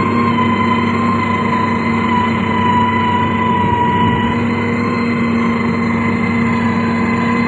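Heavy road-construction machine engine, a motor grader or road roller, running steadily under constant load with a steady hum and whine and no changes.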